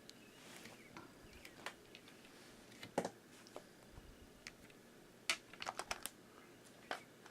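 Faint, scattered light clicks and taps of small hard objects being handled, with one sharper click about three seconds in and a quick run of clicks a little after five seconds.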